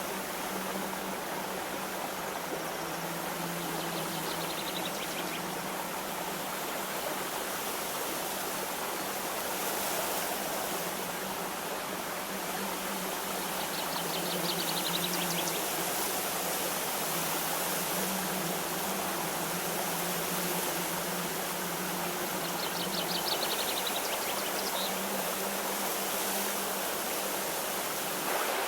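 A stream running steadily, its water a constant even rush. Three times, about ten seconds apart, a short high trill of rapid notes sounds over it.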